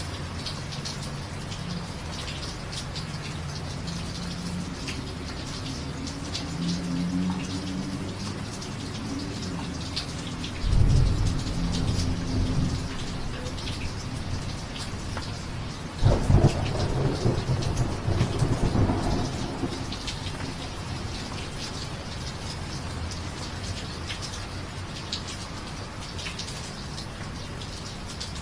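Steady rain falling, with a dense patter of drops. Thunder rumbles twice: once about eleven seconds in, and again more loudly a few seconds later, each time starting suddenly and then rolling away.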